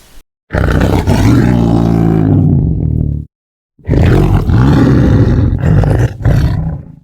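A large animal roaring: two long, loud, low roars of about three seconds each, the second starting just under a second after the first stops.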